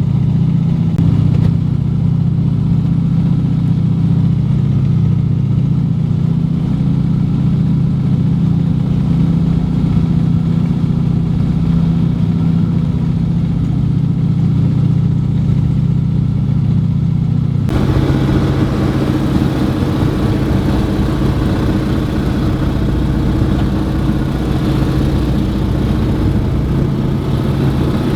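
Steady drone of the Junkers Ju 52's radial engines. About two-thirds of the way in the sound changes abruptly, becoming brighter and hissier, with the engine tones shifting.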